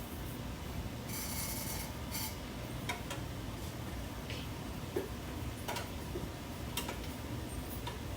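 Scattered light clicks and taps of kitchen utensils while cooked onion is moved, with a short hiss about a second in, over a steady low hum.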